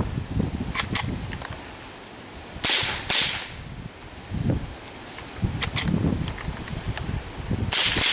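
A string of .22 LR rifle shots at irregular spacing, with two louder shots about three seconds in and a quick run of shots near the end.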